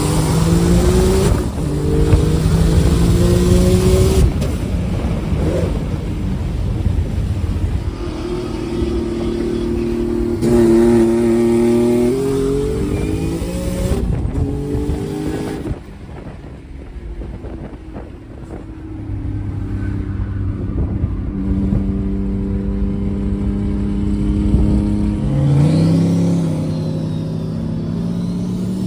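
Car engine accelerating hard through the gears, its pitch climbing and then stepping down at each shift. It eases off about halfway through, then pulls through the gears again.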